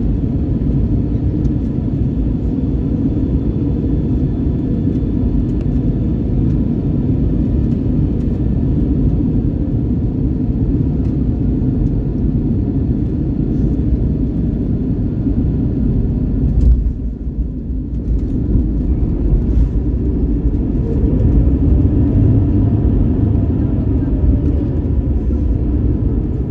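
Steady low rumble of an Airbus A321neo heard inside the passenger cabin. The noise dips briefly about 17 s in, and a faint tone rises and then falls near the end.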